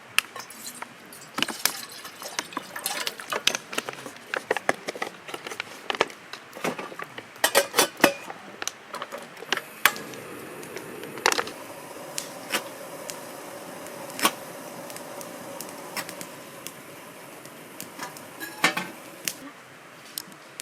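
Clinks and knocks of cookware and utensils being handled, followed from about ten seconds in by a steadier hiss with a faint hum under a few more clinks.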